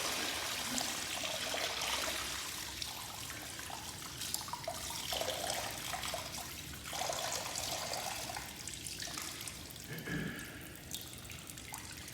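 Dirty recovered water draining out of a Mytee Lite 8070 hot-water carpet extractor's tank, running and splashing, with the flow slowly easing to a trickle.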